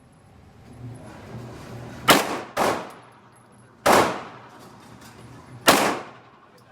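Glock 19 Gen 3 9mm pistol fired four times at an uneven pace: two quick shots, then two more single shots a second or two apart. Each shot has a short echoing tail.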